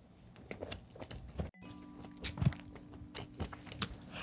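Close-miked chewing of a mouthful of soy sauce chicken: soft, wet mouth clicks and smacks at an irregular pace. The sound drops out for an instant about a second and a half in.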